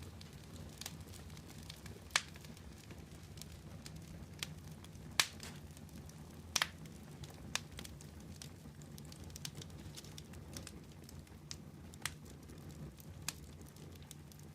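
Fire crackling: a steady low rumble of burning with irregular sharp pops, the loudest about two, five and six and a half seconds in.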